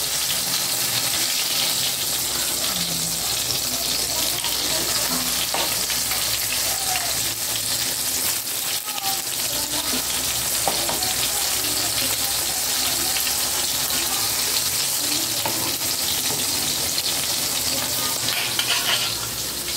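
Eggplant slices sizzling in hot oil in a frying pan, a steady hiss, with metal tongs now and then turning them.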